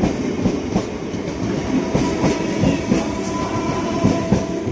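Suburban EMU train running, heard from inside the coach: wheels clattering and knocking over rail joints with a running rumble. A faint steady whine comes in about halfway through.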